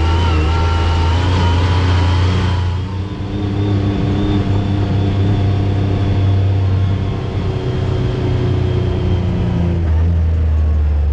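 Side-by-side UTV engine running while driving a dirt trail. It eases off about three seconds in, then picks up again near the end.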